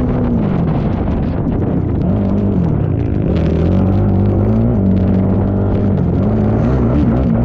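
ATV engine running hard under racing throttle, its pitch dropping off and climbing back several times as the rider lets off and gets back on the gas.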